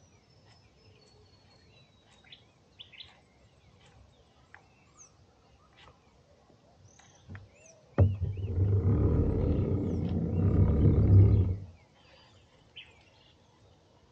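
Faint bird chirps and whistles, then a loud, low, steady whirr. The whirr starts abruptly with a click about eight seconds in and cuts off sharply a little under four seconds later.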